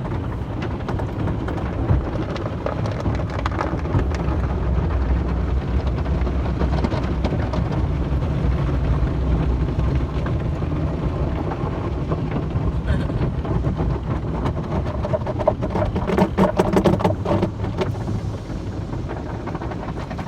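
Car wash: water spray drumming on a car over a steady low mechanical rumble, with a louder spell of patter and clatter about three-quarters of the way through.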